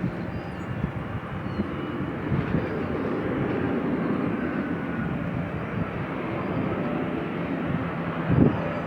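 Jet aircraft engines running with a steady rumble and a faint high whine.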